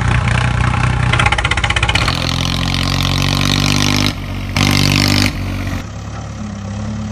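Heavy vehicle engine sounds, running and revving, in several segments that cut abruptly from one to the next.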